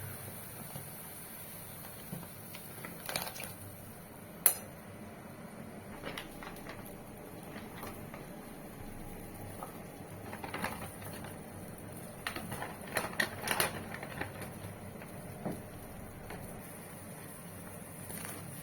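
Cutlery and dishes clinking at a table: scattered light taps and clicks, with one sharp click about four and a half seconds in and a quick run of taps about two-thirds of the way through.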